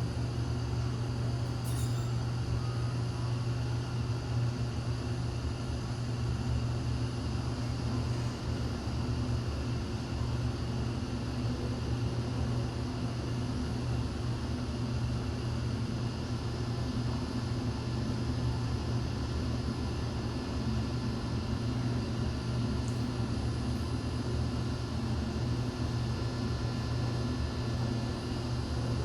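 Hyundai passenger elevator car travelling, a steady low hum with an even rush of noise and no break in level.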